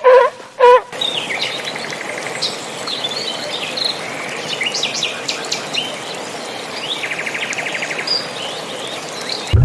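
Birds chirping and trilling over a steady outdoor background hiss, after a few short pitched animal calls in the first second.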